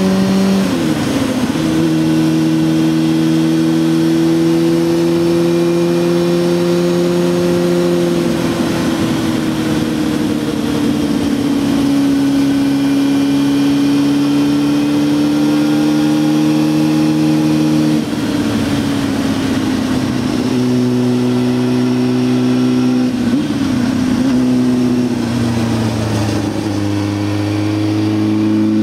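Honda Hornet 600's inline-four engine under way on a winding road. It holds fairly steady revs with sudden pitch changes at gear changes, about a second in and again later, and the revs climb near the end. Wind rushes over the helmet-mounted camera.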